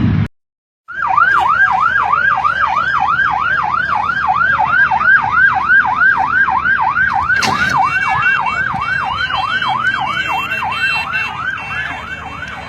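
Emergency vehicle siren in a fast yelp, sweeping up and down about three times a second, starting abruptly after a brief silence. There is a sharp knock about seven and a half seconds in.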